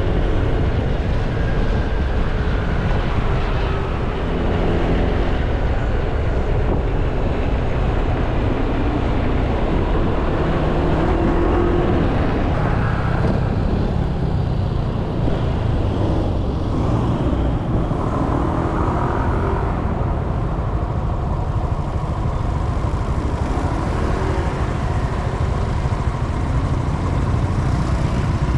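Honda Click 160i scooter's single-cylinder engine running on the move through town traffic, its pitch rising and falling with the throttle, over a steady low rumble of road and traffic noise.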